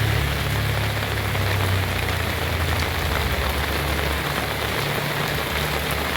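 Heavy rain falling steadily, with a low rumble underneath that fades out about four seconds in.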